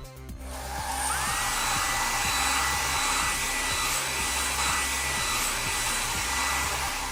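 Cartoon car-wash sound effect: a steady rushing hiss that fades in at the start and dies away near the end, with a high whistle that rises about a second in and then holds. Children's background music continues underneath.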